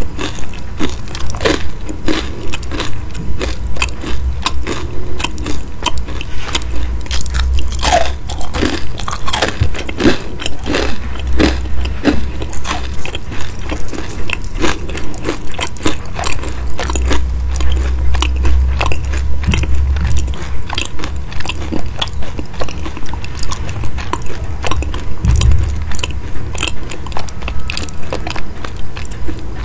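Crisp, sesame-topped chicken cutlets being bitten and chewed close to the microphone: crackly crunching in a steady rhythm of about two chews a second.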